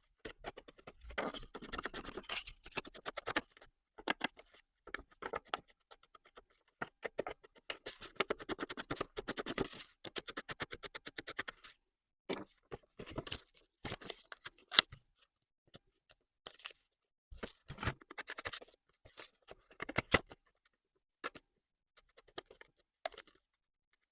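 Ink being rubbed onto the edges and flaps of a paper envelope: quick, quiet scratchy strokes of an ink applicator on paper, coming in bursts with short pauses between.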